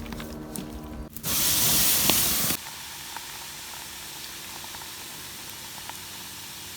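Water for tea boiling over a campfire, hissing: a loud hiss for about a second and a half near the start, then a steady, softer hiss. A low hum lies under the first second.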